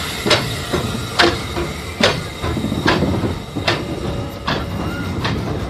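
A train running slowly along the track, with a sharp click or knock about every 0.8 seconds over a steady rumble.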